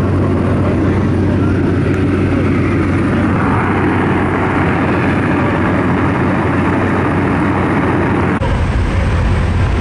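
Propeller aircraft engine droning steadily inside the cabin during the climb, with rushing air noise over it. The sound changes abruptly about eight seconds in.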